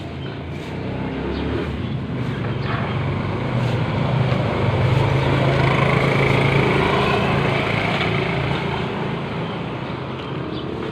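A motor vehicle passing by, its engine hum growing louder to a peak about halfway through and then fading.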